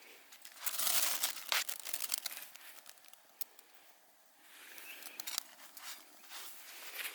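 Crinkling and rustling of crinkly material being handled, loudest about a second in with a few sharp clicks, easing off midway and picking up again in a second, softer stretch.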